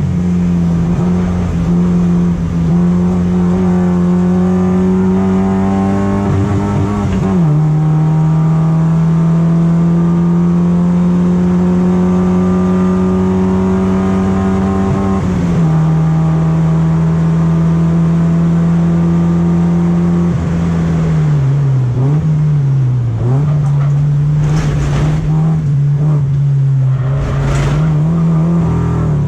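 BMW E36 racecar engine under hard acceleration, its pitch climbing through long pulls, with a sudden drop at an upshift about 7 seconds in and another about 15 seconds in. It then holds steady before the revs dip and rise again from about 21 seconds, with short harsh noises near the end. The car is being tested for a misfire and hesitation that the driver puts down to a fuel supply problem.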